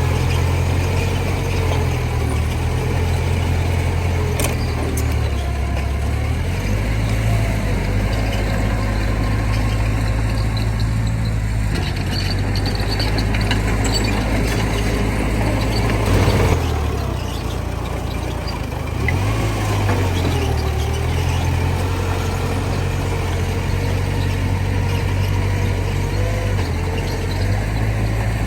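Heavy diesel earthmoving machinery running under load, its low engine note shifting up and down as it works. About halfway through there is a brief loud burst of noise; the engine then drops for a couple of seconds before picking up again.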